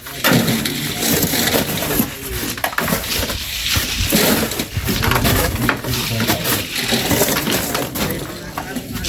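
Shovels scraping and scooping sand, with repeated gritty scrapes and thuds as the sand is loaded by hand.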